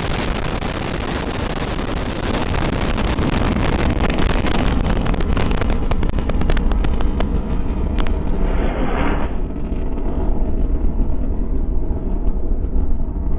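Minotaur V rocket's solid-fuel first-stage motor in the seconds after liftoff: a heavy rumble with dense crackling. After about six seconds the crackle and hiss fade, leaving a low rumble as the rocket climbs away.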